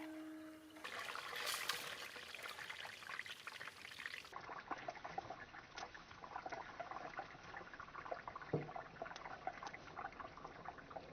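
Chegodi rice-flour rings deep-frying in hot oil: a steady sizzle of many fine crackles.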